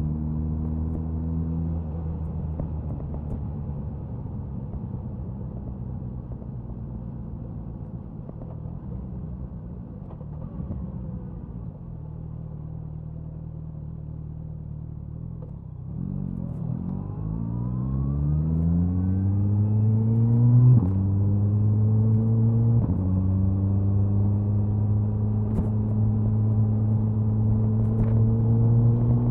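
Suzuki Hayabusa inline-four exhaust under way. It runs at a lower, quieter note, then about halfway accelerates with rising pitch, shifting up twice a couple of seconds apart, and settles into a steady cruising note.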